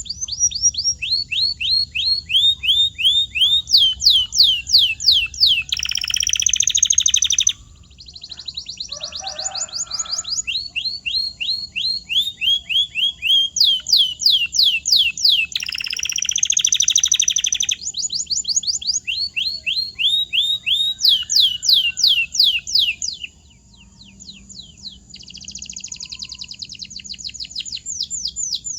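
Domestic canary singing a continuous song of rapid repeated whistled notes, each falling in pitch, in phrases that change every couple of seconds, with short buzzy rolls about six, sixteen and twenty-five seconds in.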